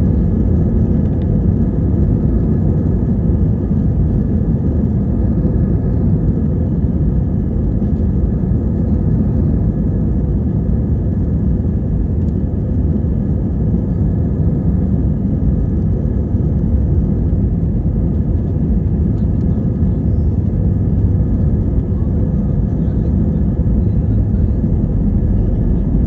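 Steady, loud low engine rumble with a faint steady whine above it, unchanging throughout.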